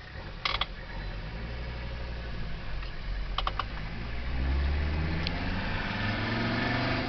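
Mercedes-Benz turbo diesel engine pulling away and accelerating, getting louder and rising in pitch over the last few seconds. A sharp click comes about half a second in, and a quick run of three clicks comes a little past the middle.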